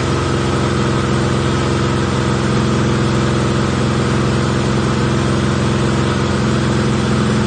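Porsche 964's air-cooled flat-six engine idling steadily, freshly rebuilt and running on its first start.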